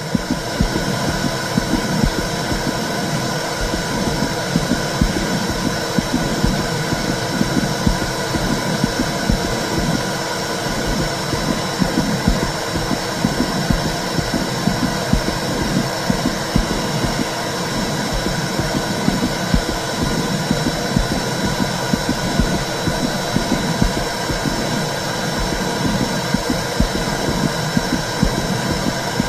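Womb sound for soothing a baby: a steady, loud whooshing rumble with a fast flickering low end.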